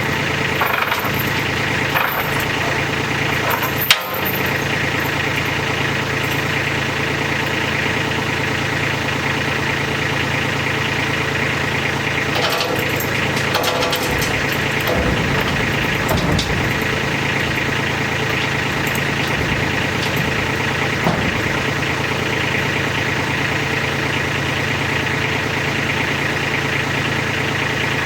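Tractor engine running steadily, with one sharp knock about four seconds in.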